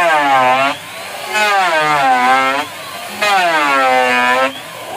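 A small engine revved in three bursts of about a second each, its pitch dipping and then climbing within each burst.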